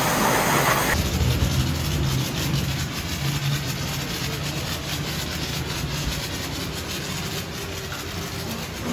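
A loud hiss that stops about a second in, then a motorcycle engine idling steadily.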